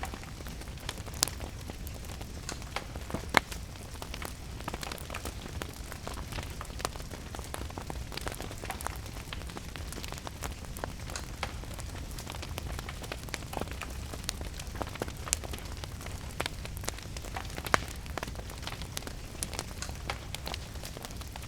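Fireplace wood fire crackling, with frequent small snaps and a few louder pops, over steady rain.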